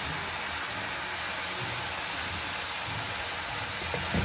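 Wet fenugreek (methi) leaves sizzling in a pan with fried potatoes and masala, a steady hiss. A wooden spatula knocks and scrapes in the pan near the end.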